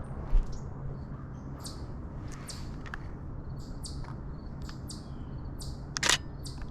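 Small songbirds calling in a steady run of short, high chips and tweets over a low steady background hum. There is a thump just after the start and a louder sharp click about six seconds in.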